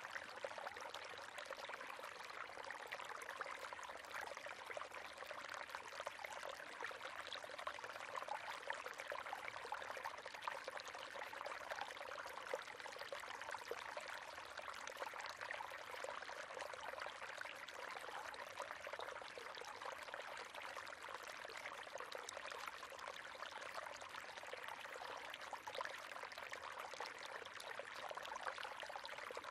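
River water running steadily over rocks, a continuous splashing rush with fine gurgling detail.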